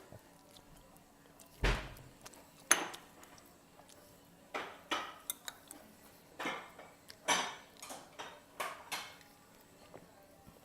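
Eating utensils knocking and scraping against a ramen bowl: a dozen or so short clicks and clinks. The loudest is a dull thump a couple of seconds in, followed by a sharp click.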